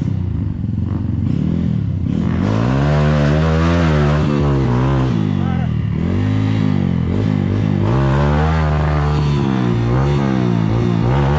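Trail motorcycle engine revving up and down again and again. From about two seconds in, its pitch rises and falls every second or two as the throttle is worked.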